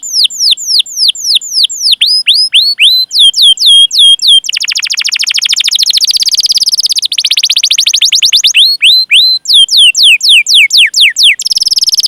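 Canary singing: a run of falling 'cuit cuit' whistle notes, about three a second, broken by fast rolling trills about four seconds in and again near the end.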